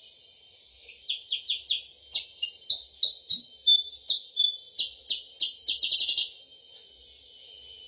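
Lure-call recording of a kutilang sutra (percang) song: a quick run of short, sharp chirping notes that starts about a second in and stops about six seconds in, over a steady high insect drone.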